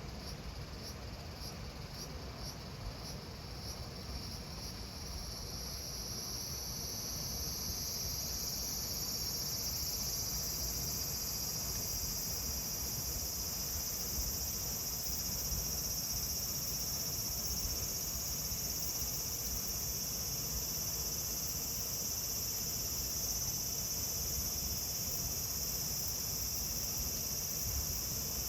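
Cicadas singing in summer heat: at first a pulsing call a few times a second, which swells within the first several seconds into a loud, steady, high buzz that holds.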